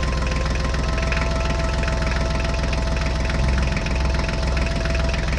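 Small engine of a homemade mini tractor running steadily, with a fast, even ticking.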